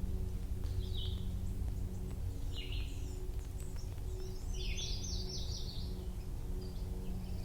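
Steady low rush of a running creek, with songbirds calling over it: two short chirps, then a quick run of descending notes about halfway through.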